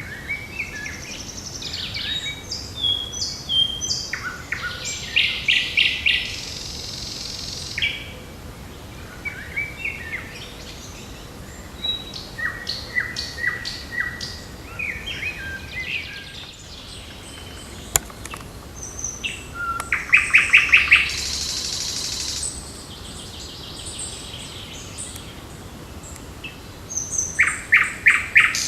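Several songbirds singing at once, short chirped and whistled phrases overlapping. One bird repeats the same song three times: a quick run of rapid notes ending in a buzzy, high flourish.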